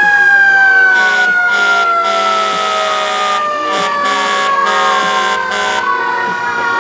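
Federal Signal Q2B mechanical siren on a fire engine winding down, its wail sliding slowly lower in pitch after being spun up. About a second in, a run of short and long on-off blasts of a harsher sound starts over it and stops about a second before the end.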